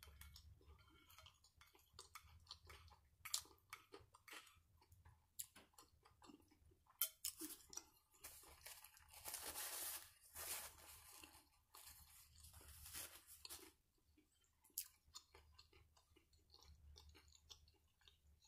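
Faint close-up chewing and mouth sounds from eating a BBQ chicken sandwich, with small clicks of a plastic fork against the plate. About halfway through, a few seconds of paper rustling as a napkin is rubbed over the hands.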